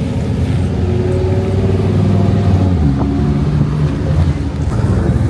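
A car's engine and exhaust running, its pitch stepping up about three seconds in.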